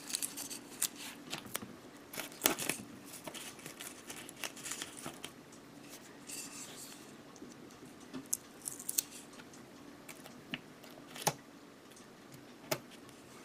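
Light clicks, taps and short rustles of small plastic model-kit parts and masking tape being handled on a workbench, with sharper clicks scattered throughout.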